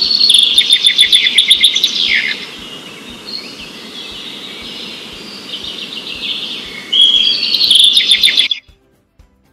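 Recorded bird song: rapid trilled phrases over a steady low hiss, loudest in the first two seconds and again near the end, cutting off suddenly shortly before the end.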